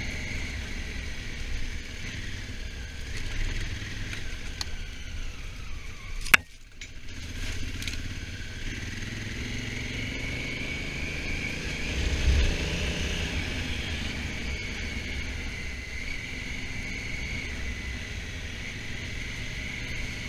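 Honda Africa Twin motorcycle running on the move, engine rumble under steady wind and road noise. A single sharp click comes about six seconds in, with a short dip after it, and the engine swells louder around twelve seconds in.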